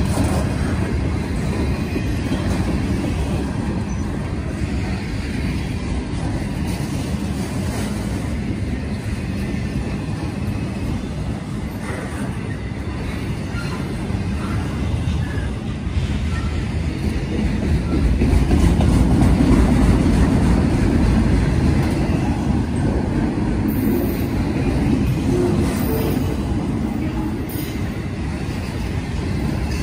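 Freight train cars, mostly autoracks, rolling past at close range: a steady rumble of steel wheels on rail that swells louder for a few seconds past the middle.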